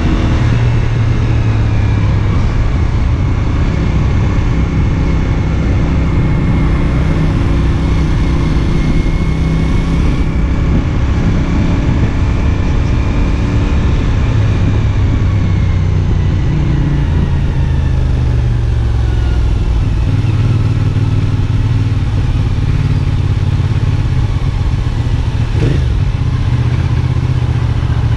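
CFMoto 450SR S parallel-twin engine running under way, its note rising and falling as the throttle and gears change.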